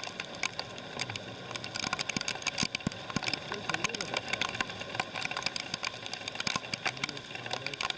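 Raindrops tapping irregularly and densely close to the microphone, over a faint steady hum, with faint voices at times.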